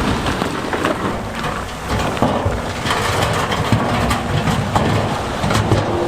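Heavy diesel earthmoving machinery running while large stones grind and knock against each other, with many sharp clacks over a steady low engine rumble.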